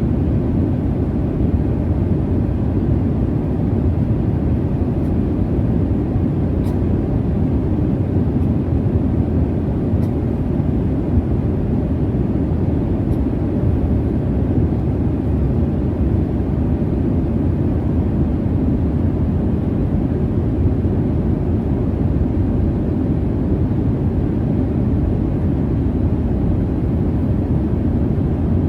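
Jet airliner cabin noise: the steady low rumble of engines and rushing air heard from inside the cabin, even and unchanging, with a few faint ticks in the first half.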